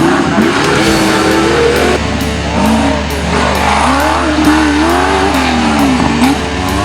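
Off-road 4x4 engine revving hard, its pitch rising and falling repeatedly, over background music with a steady beat.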